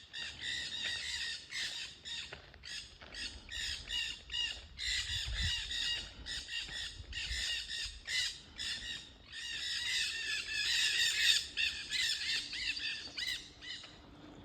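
A flock of parrots squawking: many harsh calls overlapping in quick succession, loudest about ten seconds in.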